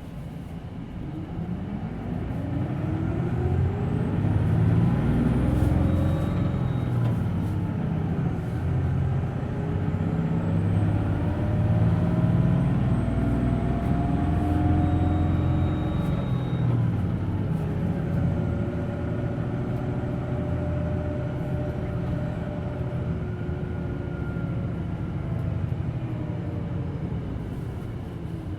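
Hino Blue Ribbon City Hybrid bus heard from inside the cabin, its hybrid diesel drivetrain pulling hard and picking up speed with rising whines that climb and break several times, then easing near the end. A short high steady beep of the engine over-rev warning buzzer sounds twice, about six seconds in and again around fifteen seconds.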